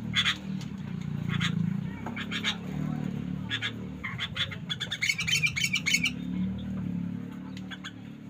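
Caged bulbuls calling: short bursts of chirping notes every second or so, with a quicker run of notes about five seconds in, over a steady low hum.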